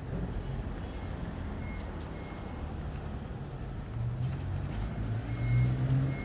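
A vehicle engine running with a low, steady hum over rumbling background noise; the hum grows louder about four seconds in. Faint short high-pitched beeps sound a few times.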